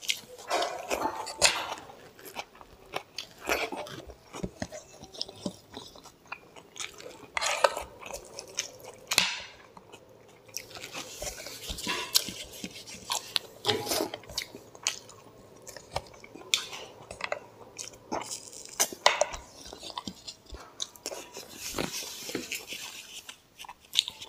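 Close-up eating sounds of mutton curry and rice eaten by hand: irregular chewing and biting mouth noises with many small clicks.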